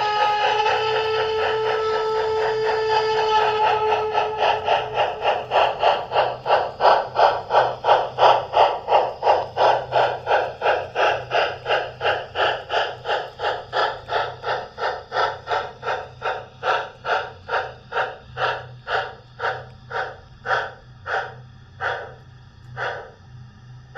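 H0-scale model train running and slowing down: a regular beat that starts fast and steadily slows to about one beat a second by the end, with a steady tone held over the first few seconds.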